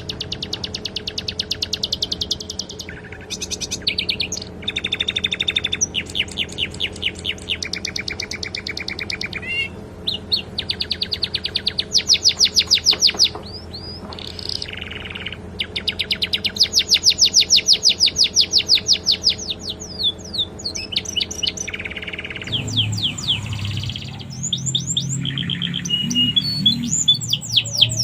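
Domestic canary singing a continuous run of rapid, high-pitched trills and rolls, one phrase after another. This is a canary song filled with sikatan londo phrases.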